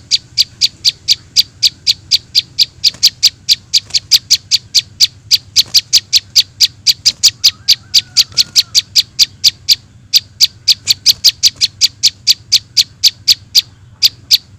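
Rapid, evenly spaced high chirps of juvenile prinia (prenjak) calls, about five a second, played as a bird-trapping lure, with brief breaks about ten seconds in and near the end.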